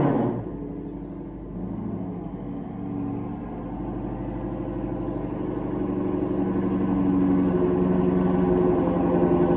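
Ford Shelby GT350R's 5.2-litre flat-plane-crank V8 idling after a cold start. A rev dies away right at the start, then the engine runs steadily and grows gradually louder.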